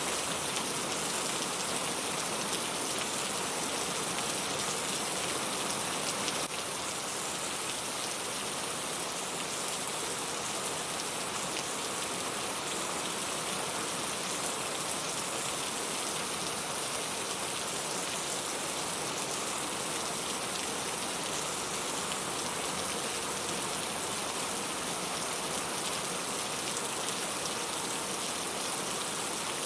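Steady rain falling, an even, unbroken hiss of drops, dropping slightly in level about six seconds in.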